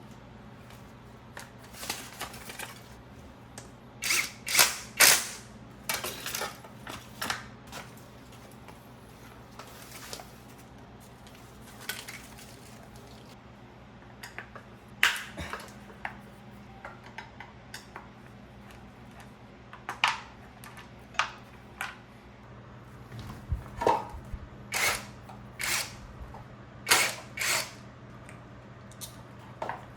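Hand tools and metal motorcycle parts clicking and clanking irregularly as the bike is taken apart, over a steady low hum.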